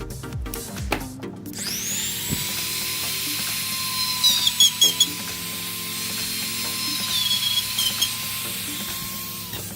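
A small high-speed electric power tool, like a mini drill, starts about a second and a half in and runs with a steady high whine and hiss. It dips in pitch twice and stops just before the end. Background music plays underneath throughout.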